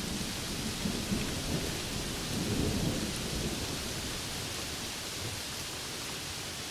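Steady rain hiss with a roll of thunder rumbling underneath, swelling about halfway through and fading out shortly after.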